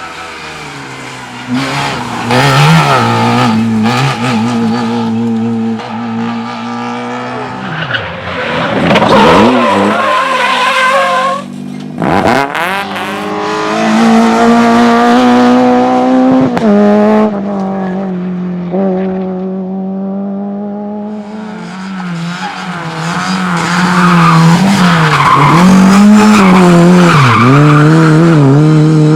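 Rally cars on a sprint stage, engines revving hard and dropping through gear changes as they pass, with tyres squealing. There is a falling pass around nine to ten seconds in and a sharp break just after twelve seconds.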